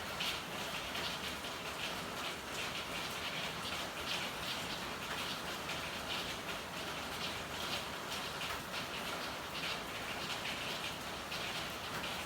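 Steady rain falling, with many separate drops striking a hard surface in an irregular stream.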